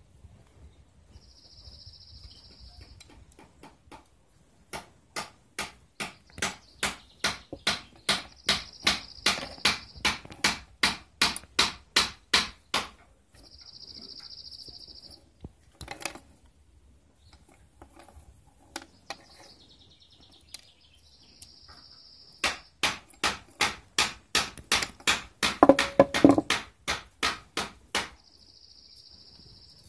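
Two runs of quick, even striking or tapping, about three strikes a second, each run lasting several seconds. Short bursts of high hiss come before, between and after the runs.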